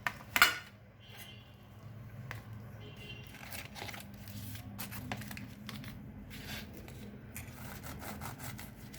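Kitchen handling sounds: a sharp knock about half a second in, then light scattered scrapes and clicks over a low steady hum.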